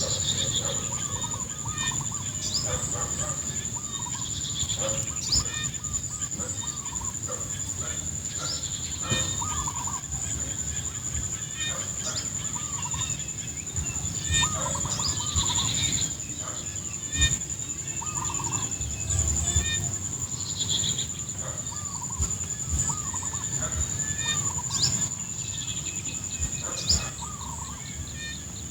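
Many fowl calling over and over in short, bending calls, over a steady, high-pitched insect drone that never breaks.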